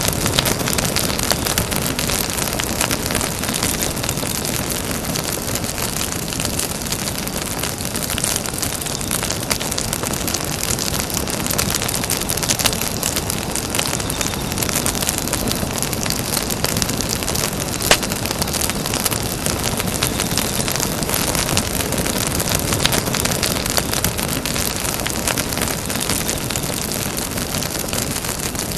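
Campfire burning with a steady rushing noise and frequent small crackles and pops of burning wood, with one sharper, louder pop about two-thirds of the way through.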